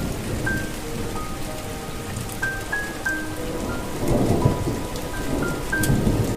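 Steady rain with scattered drops, and low thunder rumbling about four seconds in and again near the end. Over it a slow melody of single soft notes at changing pitches, each fading out.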